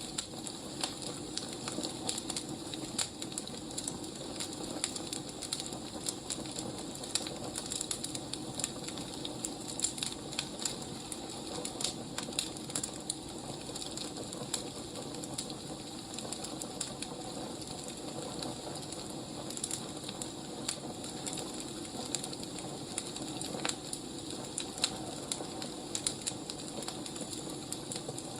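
Wood fire crackling: irregular sharp pops and snaps over a steady hiss of burning firewood.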